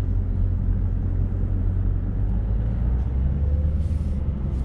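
Dodge Challenger Scat Pack's 392 (6.4-litre) Hemi V8 running steadily at low speed, heard from inside the cabin.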